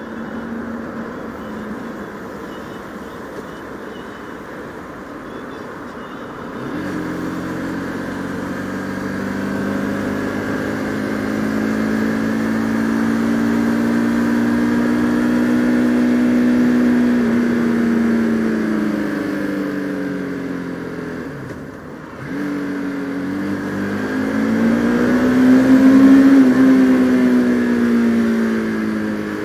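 Bajaj Pulsar RS200's single-cylinder engine on the move, heard from the rider's helmet over wind and road noise. It runs low and quiet at first, then about seven seconds in the throttle opens and the engine note climbs slowly and eases off, drops briefly about two-thirds of the way through, and pulls up again before falling away near the end.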